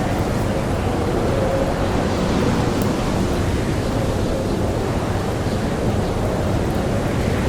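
Blizzard wind blowing steadily with a faint wavering howl, and a single sharp crackle from a campfire about three seconds in.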